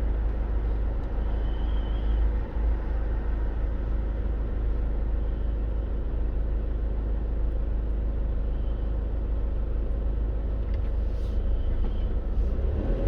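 Steady, deep road and engine rumble inside a moving car's cabin.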